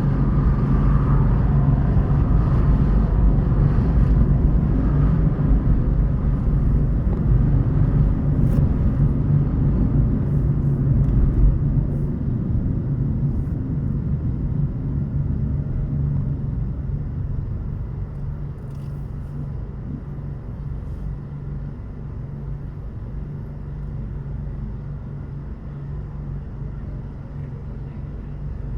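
Car driving on city roads: a steady rumble of engine and tyre noise with a low hum and a few light ticks, growing quieter from about halfway through.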